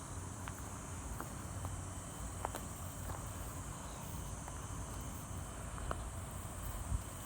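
Steady high insect trilling, with a low rumble underneath and a few faint scattered clicks.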